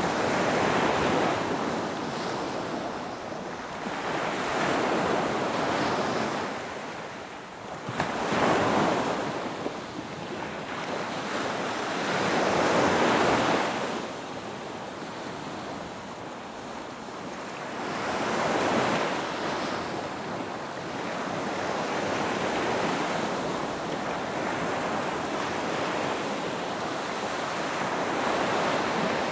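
Ocean surf breaking on a beach, the rush of water swelling and fading every few seconds, with one sharper crash about eight seconds in.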